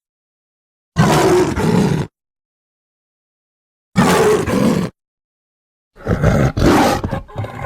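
Lion roar sound effects: three separate roars of about a second each, cut apart by dead silence, the last one choppier and trailing off near the end.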